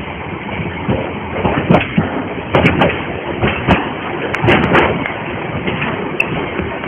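Narrow-gauge railway carriages rolling on the track, a steady rumble with a run of irregular sharp knocks and clanks from the wheels and couplings, heard from an open carriage window.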